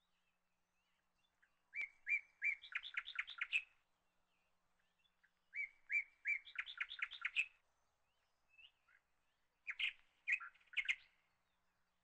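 A bird singing three short song phrases, about four seconds apart. Each phrase is a few clear notes followed by a quick run of higher notes; the last phrase is shorter.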